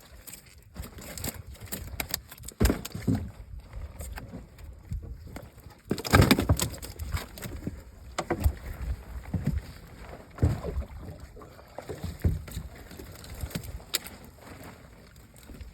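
Irregular knocks, thumps and clatter of work in a small fishing boat, over a background of water and boat noise. The loudest burst comes about six seconds in.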